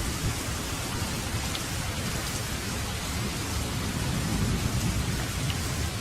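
Steady heavy rain hissing, with a low rumble of thunder swelling about four seconds in and fading toward the end.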